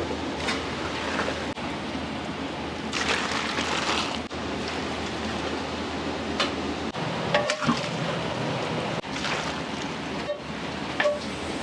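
Restaurant kitchen noise: a steady rushing hiss, louder for about a second around three seconds in, with scattered short clinks and knocks.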